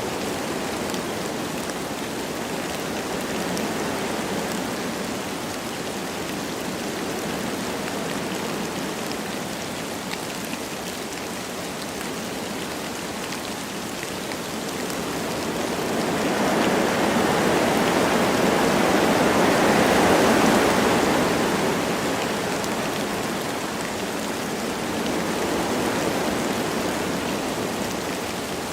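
Wind blowing through forest trees with light rain falling: a steady rushing hiss that swells in a long gust just past the middle and then dies back down.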